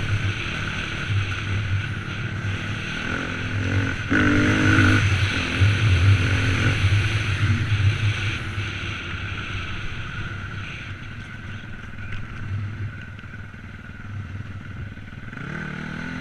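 Dirt bike engine running, louder with a rev from about four seconds in, easing off, then revving up again near the end.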